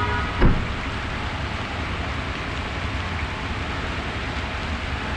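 Steady outdoor noise, even and without a clear tone, with a single thump about half a second in.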